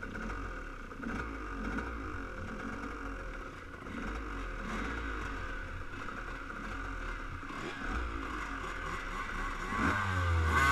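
Motocross dirt bike engine running steadily, with a rising rev near the end.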